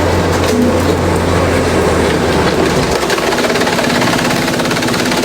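Industrial bamboo shredder running, with a dense, loud clatter of bamboo being broken up. A deep hum underneath drops away about three seconds in.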